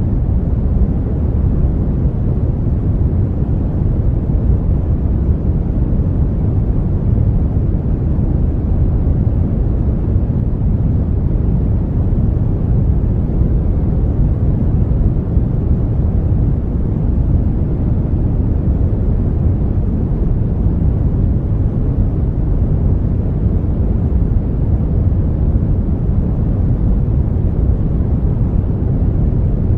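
Brown noise: a steady, deep rumbling hiss, strongest in the low end and dull in the highs, with no change in level.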